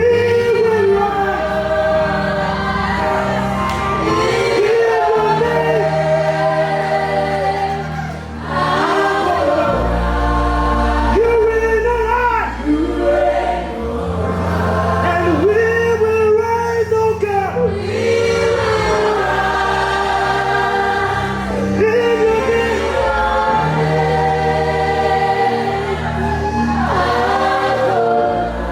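Live gospel worship music: singers and a choir singing over sustained bass-heavy chords.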